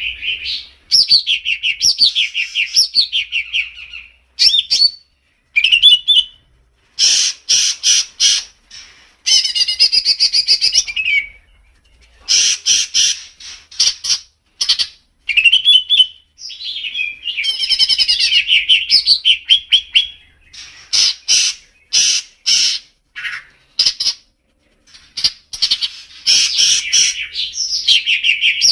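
Songbird singing a varied, loud song of rapid chirps, trills and sharp clicking notes, in phrases broken by short pauses, as used in a masteran recording for tutoring caged songbirds.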